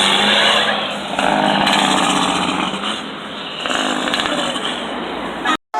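A loud, high-revving small engine running, which cuts off suddenly near the end.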